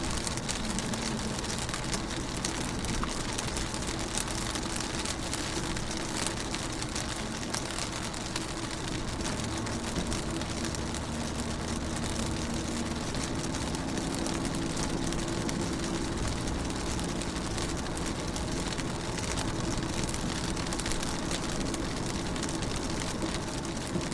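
Rain falling on a car's window and body, heard from inside the car as a steady wash of small drop ticks. Under it runs a low vehicle hum whose pitch drifts slowly up and down.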